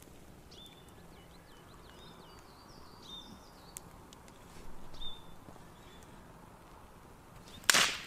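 Small birds chirping in short quick calls over faint outdoor background. Near the end there is a sudden loud, brief rush of noise.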